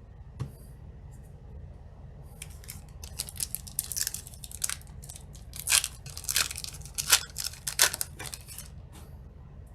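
A trading-card booster pack wrapper being torn open and crinkled: a run of sharp tearing and crackling sounds starting about two and a half seconds in.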